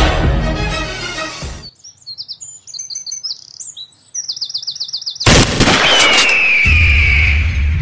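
Music cuts off about two seconds in, leaving birds chirping in quick repeated high notes against quiet. About five seconds in a sudden loud rushing noise breaks in, carrying a high whistle that falls slightly in pitch, with a low rumble joining under it.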